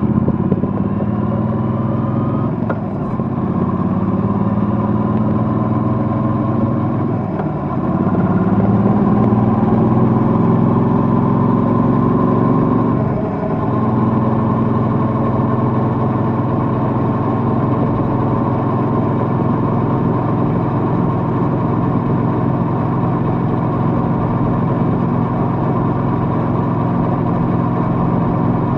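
Triumph Bonneville Bobber's parallel-twin engine pulling through the gears while riding. Its pitch climbs and drops back at three upshifts in the first half, then holds steady at cruising speed.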